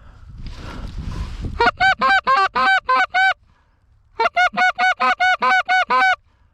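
Hunter's goose call blown in two fast runs of honking clucks, about five notes a second, each note breaking sharply upward, with a pause between the runs, to call in passing geese. A rustle comes just before the first run.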